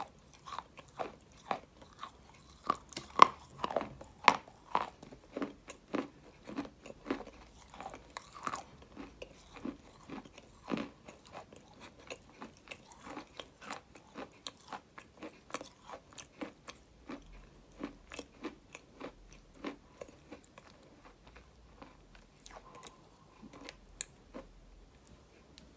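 A mouthful of dry white clay being bitten and chewed close to the microphone. Sharp, crunchy bites are loudest in the first few seconds, then thin out to fainter, sparser chewing crunches as the lump is ground down.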